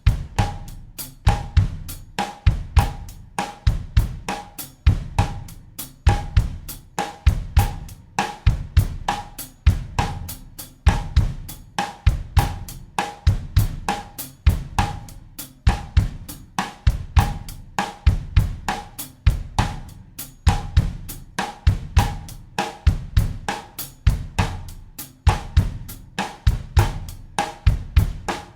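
Acoustic drum kit playing a steady bossa nova groove at 100 BPM in 4/4: bass drum thumps in the bossa pattern, rim or snare clicks, and even eighth-note hi-hat or cymbal ticks, repeating unchanged.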